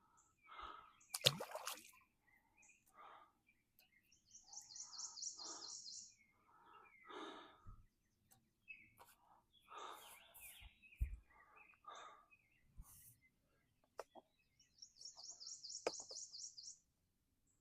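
A small bird's high, rapid trill, heard twice, each time for about two seconds, over soft, heavy, congested breathing and handling noises. A sharp knock comes about a second in.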